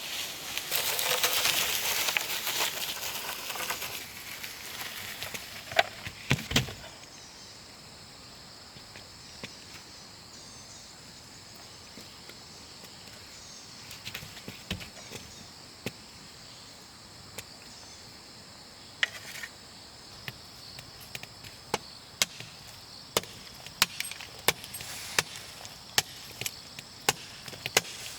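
Wood being chopped by hand: sharp single strikes, scattered at first, then coming about once a second near the end. A few seconds of rustling open it, and a steady high insect drone runs underneath.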